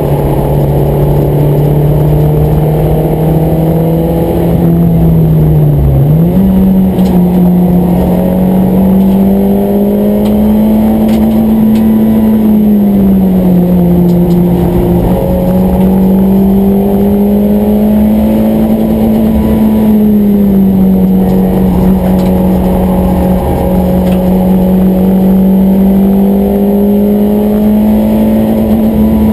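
Car engine under load heard from inside the cabin at track speed. Its pitch climbs slowly as the car pulls and falls back as the car slows for corners, with a sharp drop and jump about six seconds in. Road rumble runs underneath.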